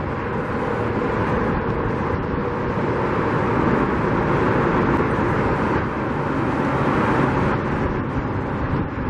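A steady rushing drone of motor traffic, mixed with wind on the microphone.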